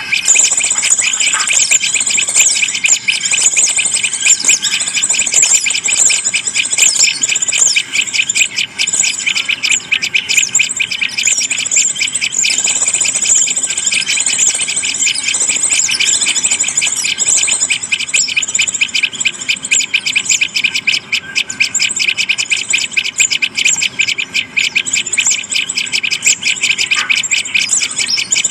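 Many small birds chirping and twittering without a break, a loud, dense chatter of rapid high notes.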